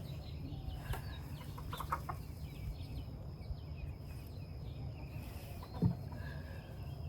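Chickens in a coop clucking and giving short chirping calls, over a steady low rumble, with a few light knocks. The loudest knock comes about six seconds in.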